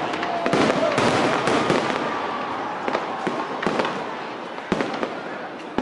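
Aerial fireworks display: repeated sharp bangs of bursting shells over a dense crackling, with a faint crowd murmur beneath.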